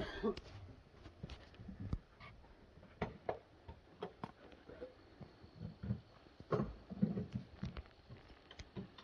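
Scattered light knocks and clicks at an irregular pace over a quiet background, a little stronger about three seconds in and again around six to seven seconds in.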